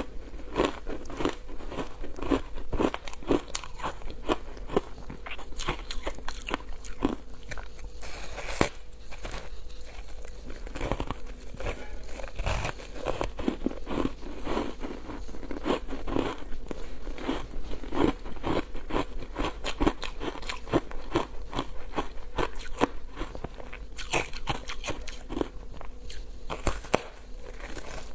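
Close-miked biting and chewing of foam ice, a rapid run of crisp crunches.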